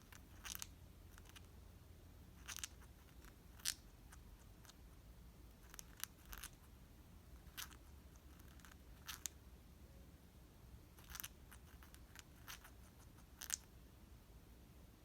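A pet bird grinding its beak: short, faint crunching clicks at irregular intervals, roughly one every second or two. Beak grinding like this is the sound of a contented bird settling into sleep.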